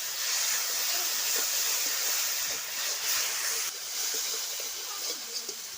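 Onion-tomato masala with freshly added ground spices sizzling as it fries in hot oil in a pan. The sizzle is loud and eases a little after about three and a half seconds.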